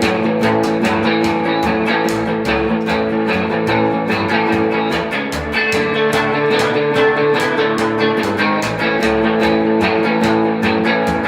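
A band playing an instrumental boogie: electric guitar and bass over a steady drum beat.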